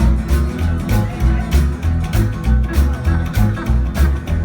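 Live band playing a boogie groove: a bouncing bass line under a steady drum beat, with guitar.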